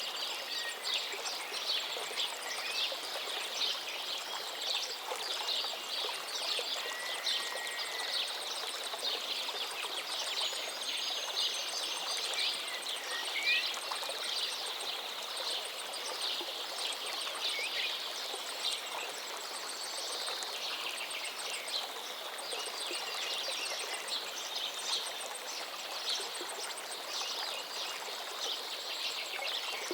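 River water flowing steadily, with many birds chirping rapidly and a few short whistled notes over it.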